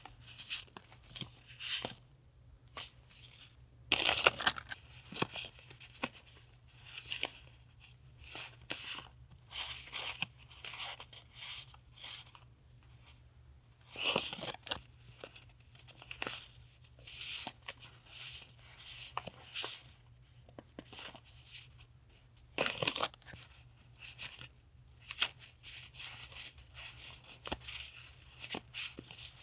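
Paper and packaging stationery items being handled: short bouts of rustling and crinkling, with three louder tearing-like rustles spread through. A low steady hum from a refrigerator near the desk runs underneath.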